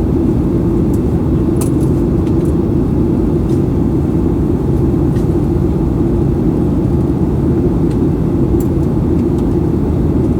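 Steady cabin noise of a Boeing 737-800 in flight, heard from a seat behind the wing: a constant low rush of the CFM56 jet engines and airflow, with a few faint clicks.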